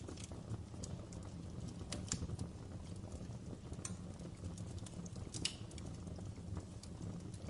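Wood fire crackling in a fireplace: irregular sharp pops and snaps over a low, steady rumble, with a few louder pops about two, four and five and a half seconds in.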